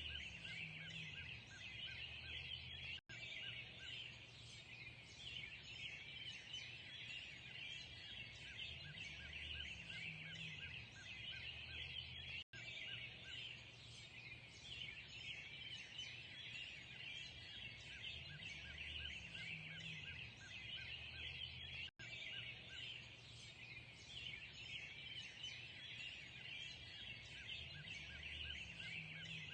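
Dense dawn chorus of many birds chirping and singing at once, with a low rumble underneath. It cuts out for an instant three times, about every nine and a half seconds.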